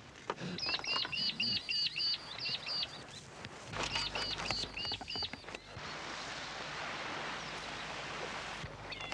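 A bird calling a quick run of sharp, repeated high notes, about three a second, then a second run a moment later, with faint knocks alongside. A steady hiss fills the last few seconds.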